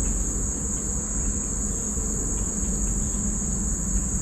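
A chorus of insects such as crickets, holding one steady high-pitched drone, over a low steady rumble.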